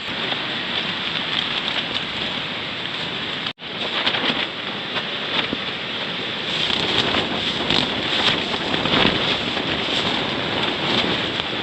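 Storm wind and rain: a steady rushing hiss with gusty swells, growing louder and brighter about two-thirds of the way through. It cuts out for an instant about three and a half seconds in.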